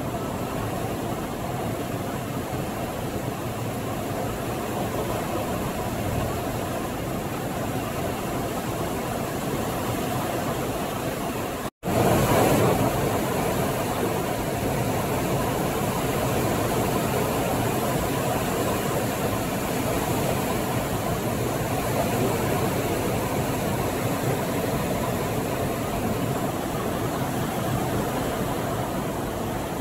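Steady road and engine noise of a car being driven. The sound cuts out for an instant about twelve seconds in and comes back a little louder.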